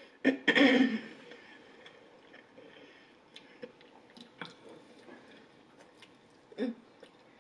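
Close-miked chewing and mouth noises of a person eating fried Chinese takeout. There is a loud burst of mouth sound under a second in, and another bite about six and a half seconds in, with small wet clicks between.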